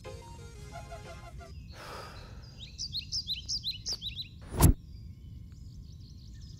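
Birds chirping: a quick run of short downward-sweeping chirps over a low steady rumble, with fainter trills later. About four and a half seconds in comes a single sharp thump, the loudest sound.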